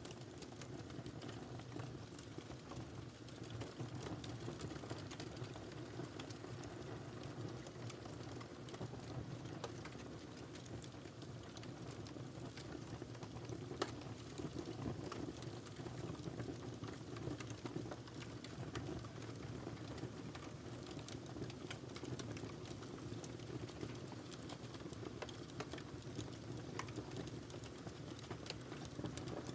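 Wood fire burning in a fireplace: a steady low rumble of flames with scattered small crackles and pops, one sharper pop about halfway through.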